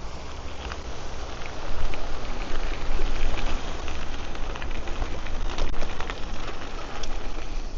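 Ride noise from a cyclocross bike on the move: its tyres give a dense crackle of small ticks, with wind rumbling on the microphone. It gets louder about two seconds in.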